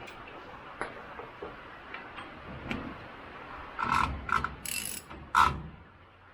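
Ratchet wrench clicking as a spindle nut is tightened on a full-floating axle, with faint ticks at first and a handful of sharp metallic clicks in the second half.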